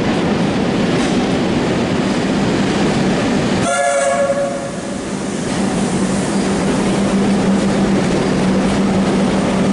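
A Comeng electric suburban train running into the platform. It sounds a short horn blast about four seconds in, then runs past with a steady low motor hum over the noise of its wheels on the rails.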